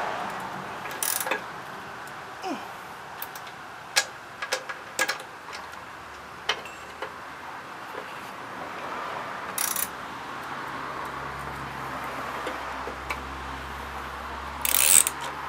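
Socket ratchet clicking in short bursts among scattered metal clinks, tightening the engine mounting bolts on a lawnmower deck; one bolt was loose enough to let the engine shift. A faint low hum comes in about ten seconds in.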